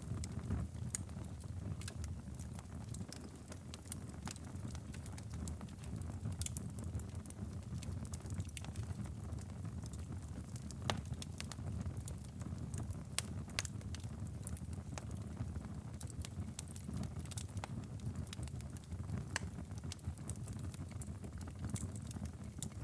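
Wood fire crackling in a fireplace, with frequent sharp pops scattered over a steady low rumble.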